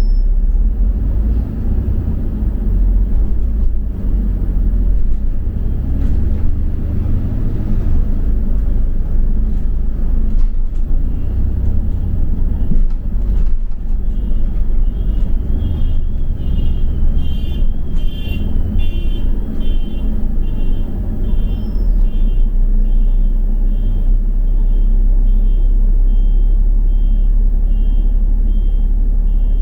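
Double-decker bus driving, heard from inside as a steady low engine and road rumble. About halfway through, a high, even beeping starts and repeats a little more than once a second.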